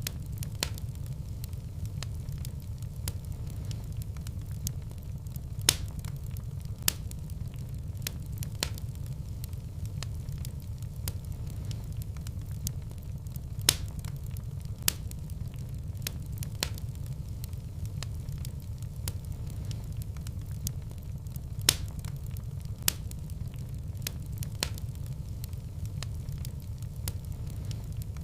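Fireplace wood fire burning, with a steady low rumble and irregular sharp crackles and pops every second or few.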